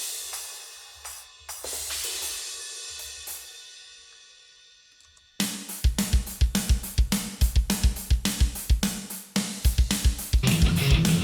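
Sampled open hi-hat hits ringing out and fading over about five seconds, then a programmed drum-kit pattern kicks in suddenly: fast, even bass-drum strokes, about five a second, under hi-hat and snare. A distorted electric guitar joins near the end.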